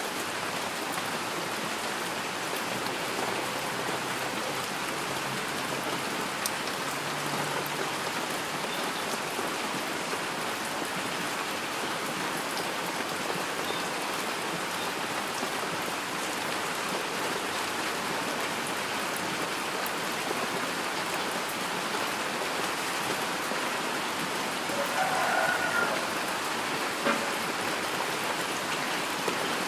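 Heavy rain falling steadily, pattering on surfaces, with a few louder drops and a sharp drip tick near the end.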